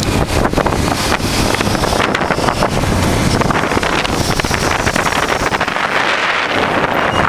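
Heavy wind buffeting across the microphone on a moving motorcycle, a dense steady rush with quick flutters, over the running of a 1988 Honda Transalp's V-twin engine at riding speed.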